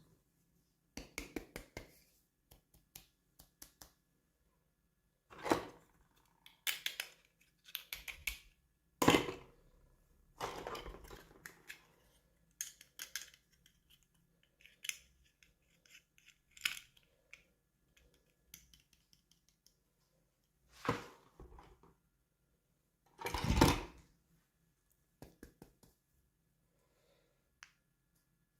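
Hands unboxing toy packaging: irregular clicks, taps and rustles with short pauses between them, and two louder clatters, one about nine seconds in and another near the end.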